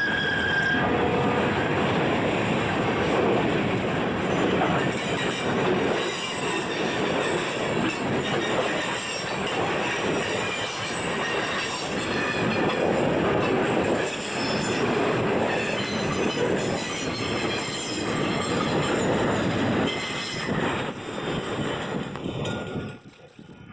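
New England Central freight train's cars rolling past, steel wheels clattering on the rail joints with some wheel squeal. The noise swells and ebbs as cars go by, then fades near the end as the train passes.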